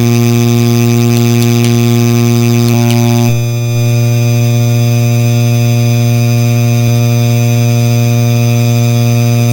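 Hampton Bay Landmark III Plus ceiling fan running with a loud, steady electrical buzzing hum from its motor, a noisy unit of its line. About three seconds in the tone shifts slightly and dips for a moment, then carries on.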